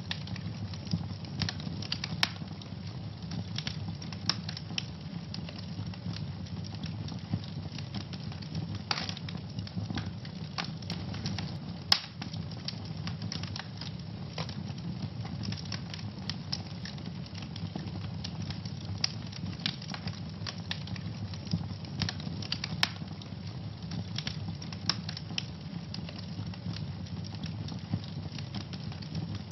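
Wood fire in a fireplace crackling and popping, with frequent sharp snaps over a steady low rumble of the flames; one louder pop about twelve seconds in.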